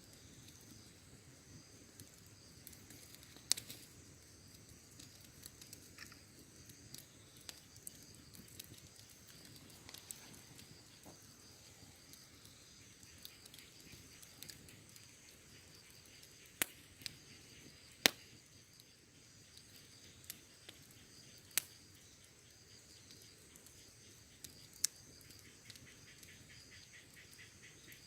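Wood campfire crackling softly, with a handful of sharp pops standing out above a low steady hiss. Insects chirr steadily in the background.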